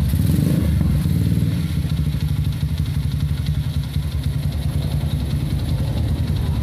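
Single-cylinder four-stroke engine of a Honda Megapro bored up to 250cc, running loud with a rapid low pulsing through an aftermarket PDK racing exhaust, settling slightly after about a second.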